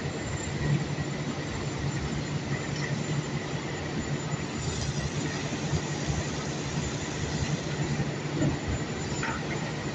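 Heavy unloading machinery running steadily: a constant low hum over a dense rumble with small irregular knocks, and a short squeak about nine seconds in.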